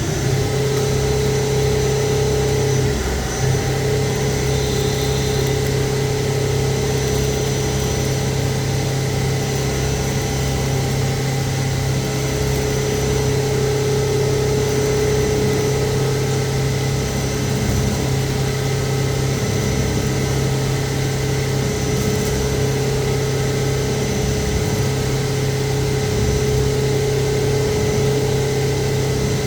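CNC turning lathe running, a steady mechanical hum with a low drone and a fixed higher tone that hold unchanged throughout.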